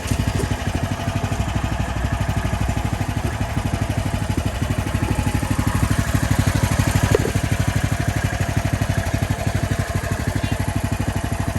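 A small petrol engine running steadily, its firing heard as a fast, even pulse.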